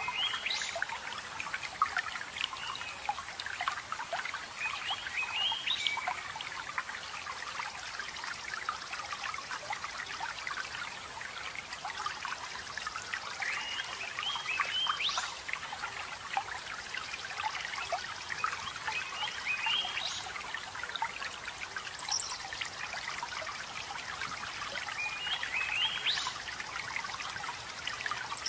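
Running water trickling and splashing steadily. A songbird sings a short phrase of stepped, rising notes over it, repeated every several seconds.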